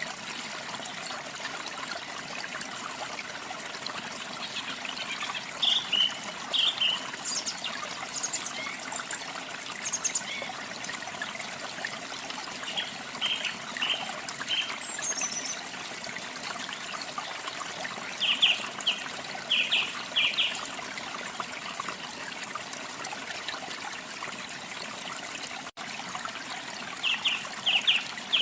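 Water trickling and splashing steadily, with a small songbird chirping over it in short runs of a few quick high notes, several times.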